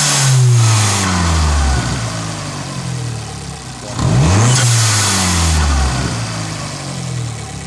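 Fiat engine breathing through an open cone air filter, blipped twice from idle: the revs rise sharply, then fall away over a couple of seconds, with a rushing hiss at each peak. The first blip tops out right at the start and the second about four seconds in.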